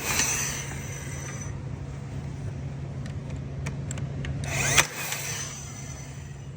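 A power tool running with a steady low hum. Two short, loud bursts come about five seconds apart, each followed by a high ringing that fades over a second or so.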